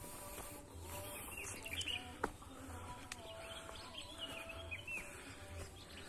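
Forest birds calling with short, falling chirps over a steady background hum of the forest, with a single sharp click about two seconds in.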